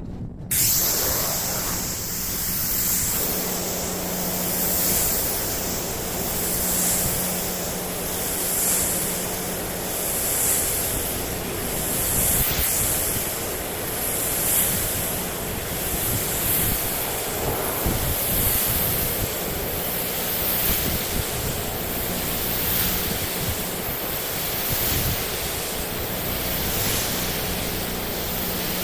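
Paint spraying: a steady rushing hiss that swells and eases about every two seconds, with a steady low hum underneath for stretches.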